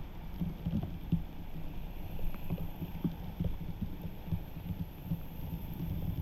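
Floodwater rushing into a storm drain: a low, churning rumble with an irregular throb and a few faint ticks.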